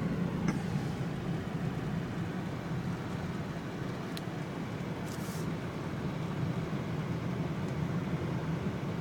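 Car driving along an icy, snow-covered road, heard inside the cabin: a steady low rumble of engine and tyre noise, with a brief click about four seconds in and a short hiss about a second later.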